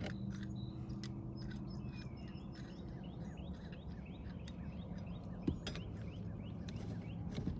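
A songbird singing a run of quick repeated chirps, about three a second, over a steady low hum, with scattered light clicks and one louder knock about five and a half seconds in.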